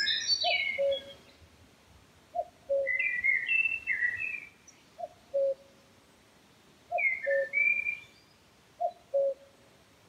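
Woodland birdsong: a low two-note call, the second note lower than the first, repeated about every two seconds, with a higher songbird's quick warbled phrases in between.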